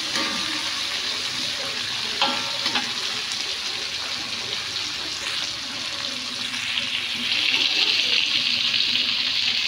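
Dried shrimp frying in hot oil in an aluminium wok: a steady sizzle that grows louder about seven seconds in. A metal spatula gives a couple of light clinks against the wok about two seconds in.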